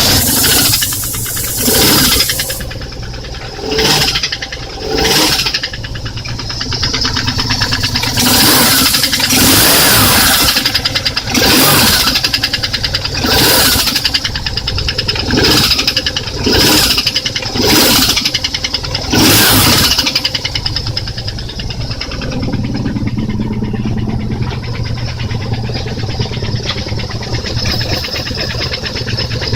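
BMW R1150RT motorcycle's flat-twin engine, revved in a series of short throttle blips, then running at a steady idle for the last several seconds. It carries a foreign noise that was not there before, which the owner suspects is a failed cam chain tensioner.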